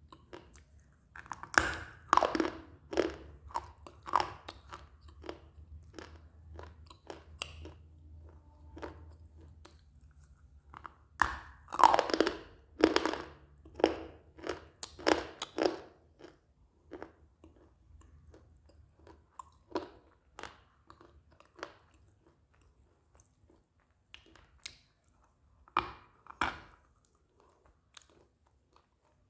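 A person biting into and chewing hard pieces of dry eating clay close to the microphone: sharp crunches in two bursts, then slower, sparser crunches as the bits are chewed down, with two loud bites near the end.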